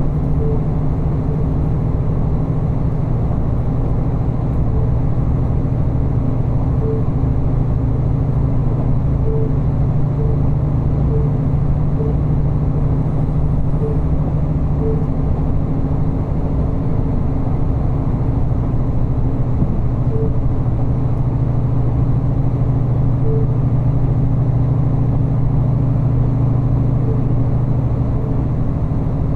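Diesel railcar running steadily along the line, heard from inside the passenger cabin: a constant low engine and running drone, with faint short ticks now and then.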